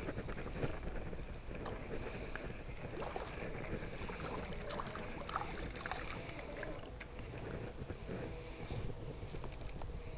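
Water splashing and sloshing close by, with many small irregular clicks and knocks throughout.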